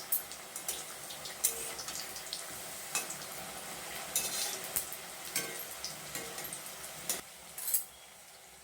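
Brinjal pieces frying in hot mustard oil in a kadhai: a steady sizzle with sharp scrapes and clinks of stirring against the pan. Near the end the clinking stops and the sizzle goes quieter.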